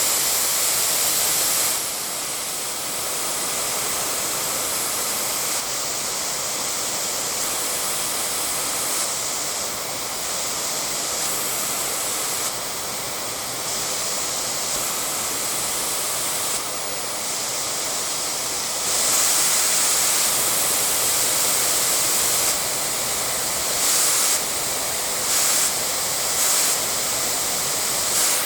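Dyson Airwrap Coanda smoothing dryer blowing air, a steady loud rush of airflow that shifts in level several times as settings or air direction change, and is loudest in the second half. Near the end the flow surges in short jumps, in line with the fault where, on the highest airflow setting with hot air, the air direction will not hold fixed to one side.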